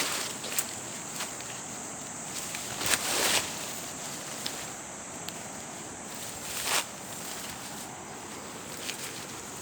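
Footsteps of a person walking outdoors: a few irregular, scattered steps and scuffs over a steady high hiss of outdoor ambience.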